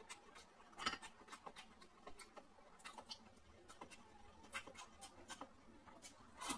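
Close-miked chewing and lip-smacking while eating pork elbow and rice: a stream of small wet clicks and smacks, with a louder smack about a second in and another near the end.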